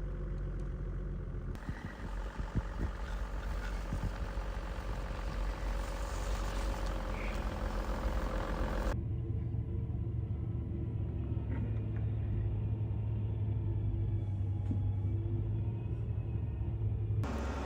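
A car engine running and idling steadily in deep snow. It is heard across several short clips that cut abruptly from one to the next, with a steady low hum in the later part.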